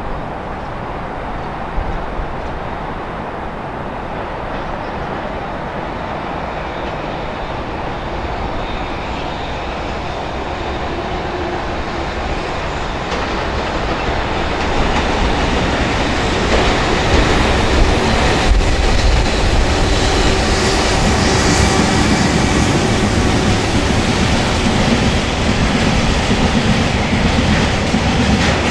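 JR Freight EH500 electric locomotive hauling a train of Taki 1000 tank wagons, rolling past. The rumble grows louder from about halfway through as the locomotive draws near, then the tank wagons roll by.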